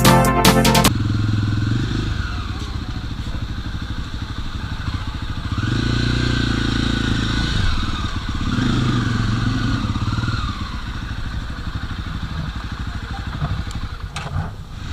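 Background music cuts off about a second in, giving way to a Jawa motorcycle's single-cylinder engine running on the move. The engine swells and rises in pitch twice as it accelerates, then drops away near the end.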